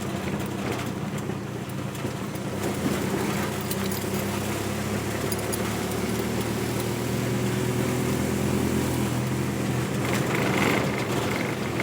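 A motor vehicle's engine running steadily while driving, with road and tyre noise.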